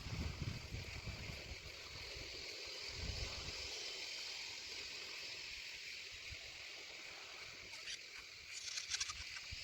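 Steady outdoor background hiss with low rumbling on the microphone, and a few faint short clicks near the end.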